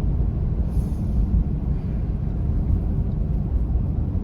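Steady low rumble of a car's engine and tyres heard from inside the cabin, driving slowly on a slippery, snow-covered road.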